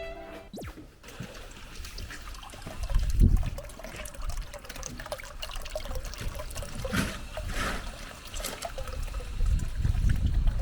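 Water trickling and pouring, with a low rumble about three seconds in and again near the end.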